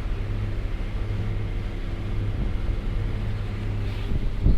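Boat motor running steadily, a low even drone.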